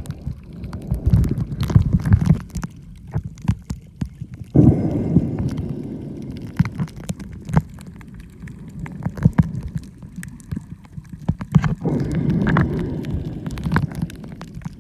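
Water rushing and gurgling around a camera microphone while snorkeling, in low rumbling surges about 5 and 12 seconds in, with many scattered sharp clicks and crackles.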